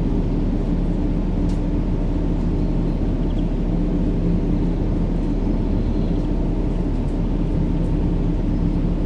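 Continuous white-noise sleep sound for babies: an even, deep rumbling hiss with a faint steady hum, unchanging throughout.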